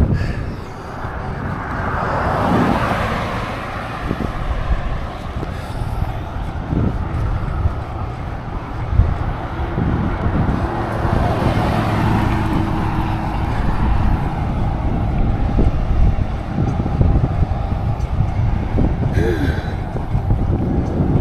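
Road traffic: cars passing, two of them swelling and fading, about two seconds in and around ten to twelve seconds in, over a steady rumble of wind on the microphone.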